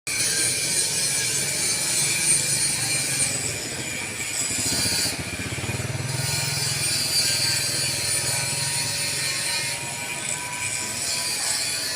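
Machinery running steadily, with a low engine hum that grows stronger about five seconds in and eases off near the end.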